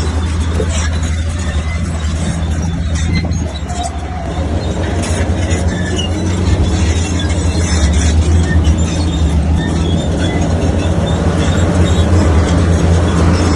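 Heavy diesel earthmoving machinery running steadily under load, with metallic clanks and squeaks over the engine. The engine dips briefly about three and a half seconds in, then rises again.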